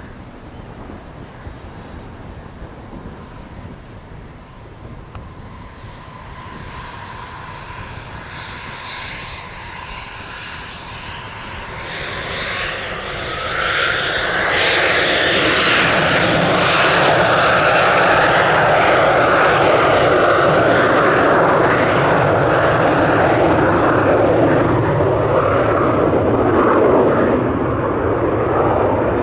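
Learjet 35A's twin Garrett TFE731 turbofan engines spooling up for takeoff, a whine rising in pitch and growing louder. About halfway through they reach takeoff power and run loud and steady as the jet rolls and climbs out.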